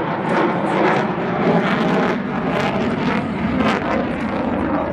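Loud, steady jet noise from an F-35A's Pratt & Whitney F135 turbofan in flight, rough and crackling throughout.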